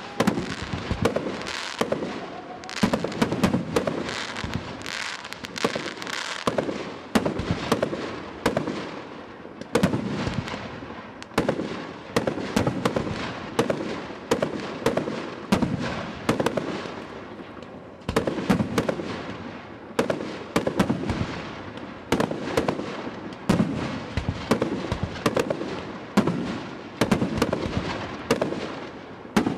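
Aerial fireworks display: a continuous barrage of shell bursts, bangs following each other every second or so, often in quick clusters, each with a rumbling, crackling echo.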